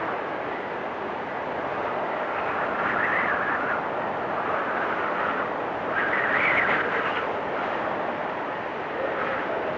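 Blizzard wind blowing steadily, swelling into stronger gusts about three seconds in and again around six and a half seconds in.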